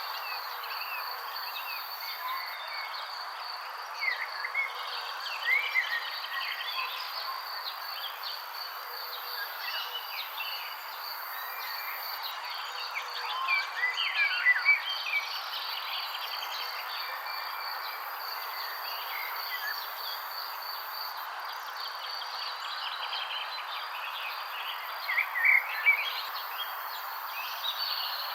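Birds chirping in short flurries, three times, over a steady high trill of insects and a constant hiss.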